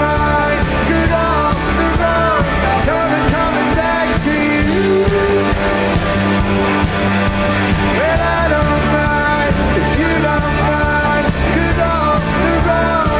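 Rock band playing live in a passage without sung words. A lead line of bending, sliding notes runs over steady bass and drums.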